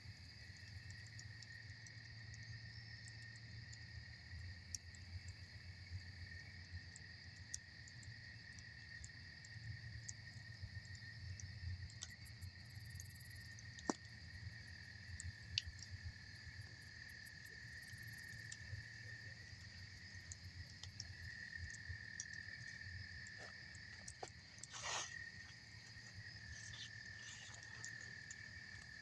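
Campfire crackling with scattered sharp pops, two of them loudest about halfway through, over a steady high insect chorus and a low rumble.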